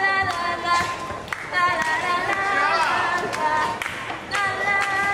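A group of voices singing in sustained notes, with hand clapping over the singing.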